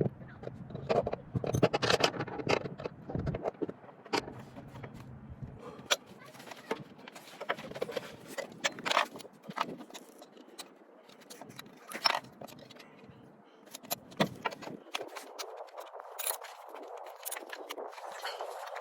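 Irregular metallic clinks, knocks and scrapes from wrenches and metal battery hardware being handled during a semi-truck battery change, with a low rumble in the first few seconds.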